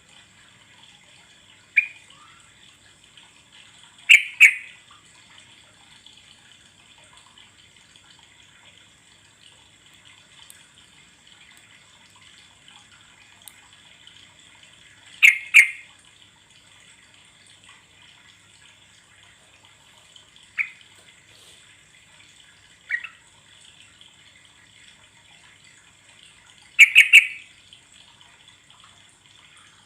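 Yellow-vented bulbul (trucuk) giving short, loud calls in about six separate bursts, some of them doubled, at irregular gaps. A steady faint hiss runs underneath.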